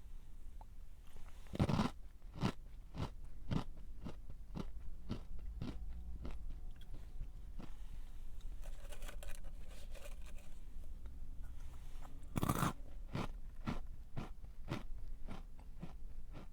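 A crunchy snack bitten and chewed close to the microphone: a loud bite about a second and a half in, then steady crunching chews about two a second, and a second loud bite near three-quarters of the way through, followed by more chewing.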